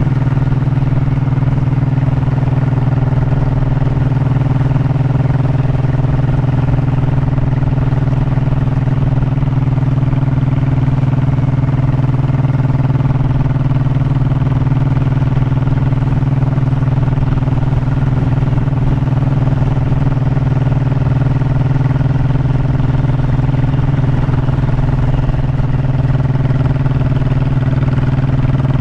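Honda motorcycle engine running steadily under way, its pitch held constant as if cruising at an even speed.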